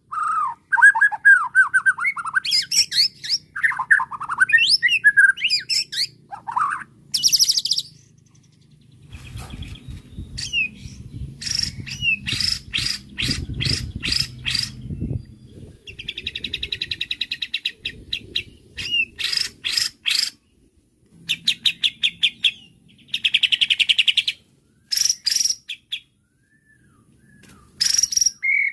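White-rumped shama (murai batu) singing: clear whistles gliding up and down for the first several seconds, then bursts of rapid rattling trills and buzzy chatter with short pauses between them.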